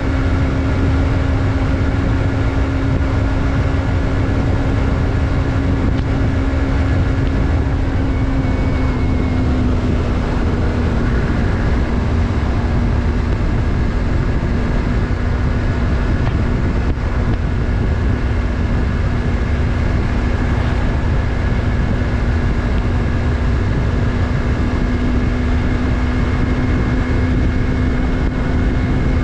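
Yamaha MT-03's parallel-twin engine running at steady revs while riding, with a low rumble underneath. The engine note dips slightly about nine seconds in and then holds steady.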